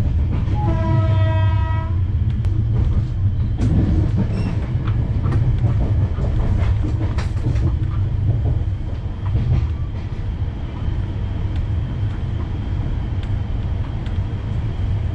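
Express train running at speed, with a steady, heavy low rumble. A horn sounds once for about a second and a half near the start, and wheels clack over rail joints at scattered moments.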